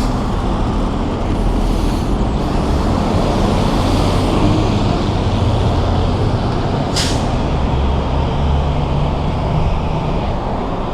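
Road traffic heard from a moving bicycle: a steady rush of wind and road noise with the low rumble of a heavy vehicle's engine, and a short sharp hiss about seven seconds in.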